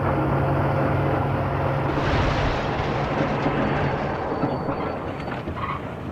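A train rumbling past, heard from a car's dashcam. Under a steady low drone, a louder rush of rail noise swells about two seconds in, then slowly fades.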